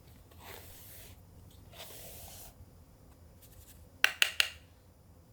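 Two soft hissing, brushing sounds, then three quick sharp clicks about four seconds in.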